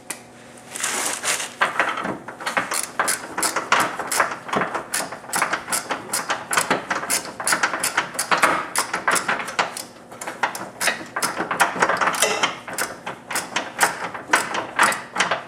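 Hand ratchet with an extension clicking in quick runs as the subframe bolts are tightened by hand.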